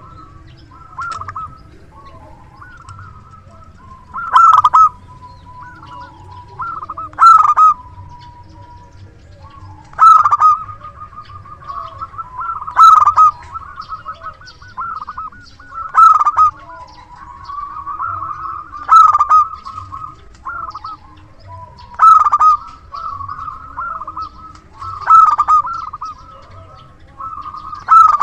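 Zebra dove (perkutut) cooing in full voice: a loud, emphatic phrase about every three seconds, with softer cooing notes in between.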